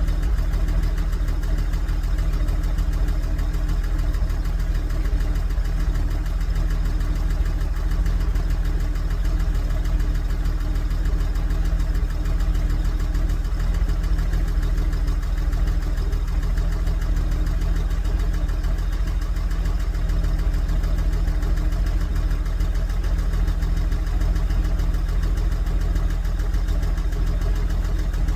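1963 Jeep Gladiator's engine idling steadily, staying running after a hard start.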